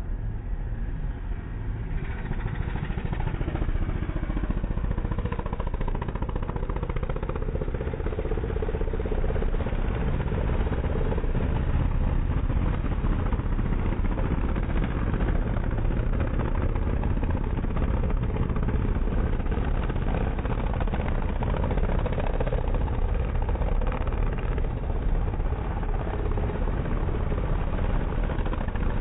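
160cc pit bike's single-cylinder engine running, getting louder about two seconds in and then holding steady.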